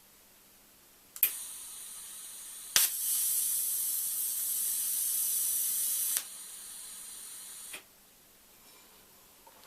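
TIG welding torch on stainless steel: the argon shielding gas hisses on, the arc strikes with a sharp high-frequency crack and runs with a steady sizzling hiss for about three and a half seconds, then cuts off, leaving the gas post-flow hissing for about a second and a half before it stops.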